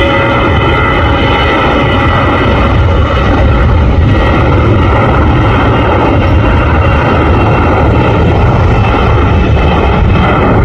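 Jet airliner's engines running loud and steady: a deep rumble with a faint whining tone above it.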